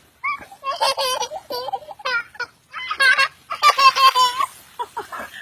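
A baby laughing in three high-pitched bursts of rapid giggles with short pauses between them.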